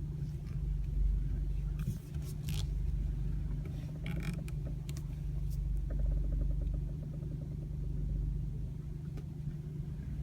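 Audi A4 B9 idling with a steady low hum while the steering wheel is turned to full lock. Short creaks or clicks come through a few times, with a run of fine ticks midway. This is the unexplained creak the car makes when the wheel is turned.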